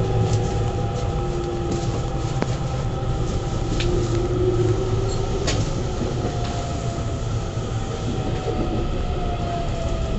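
JR West 207 series electric commuter train running, heard from inside the car: a steady rumble of wheels on rail, with the whine of its inverter-driven traction motors. The whine rises a little around the middle and then falls slowly in pitch through the second half. A few sharp rail-joint clicks come through.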